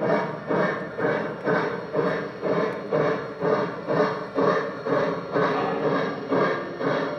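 Sound system of a Lionel O-scale 4-6-2 Pacific steam locomotive model playing steady steam chuffing, about two chuffs a second, as for a locomotive moving at low speed.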